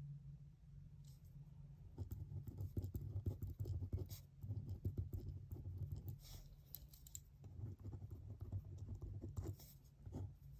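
Pen writing on paper: rapid scratching strokes in bursts, starting about two seconds in, with a few sharper ticks.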